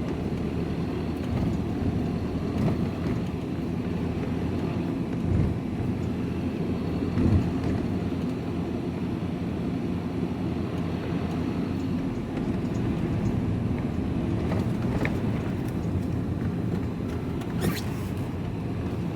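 Engine and road noise heard from inside a moving vehicle's cab: a steady low rumble, with two low thumps a couple of seconds apart about a third of the way in and a sharp click near the end.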